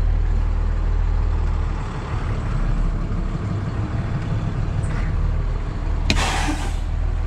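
Truck engine running steadily at low speed. About six seconds in, a sharp click is followed by a short burst of hiss.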